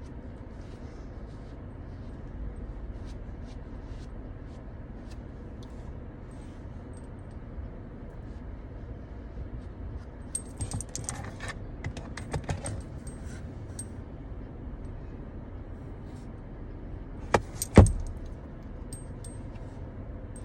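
Small hard objects clinking and rattling as they are handled, over a steady low rumble, with two sharp knocks near the end, the second the loudest.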